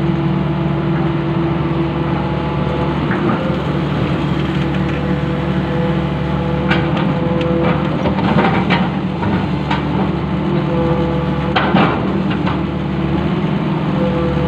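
Long-arm excavator's diesel engine running steadily. Several sharp knocks and clanks come from about halfway through to near the end.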